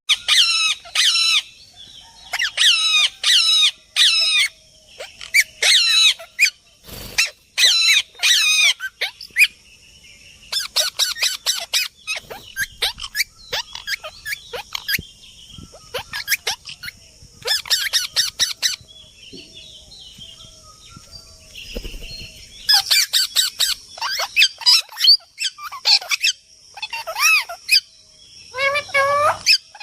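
Parrot chick squawking, loud harsh calls given in quick runs of several at a time, with a quieter pause about two-thirds of the way through.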